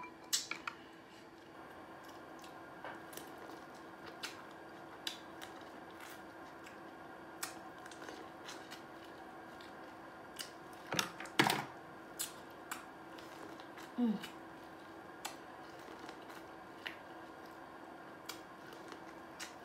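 Close-miked chewing of seafood-boil corn on the cob: scattered mouth clicks and smacks over a faint steady hum, with a louder cluster of smacks about eleven seconds in.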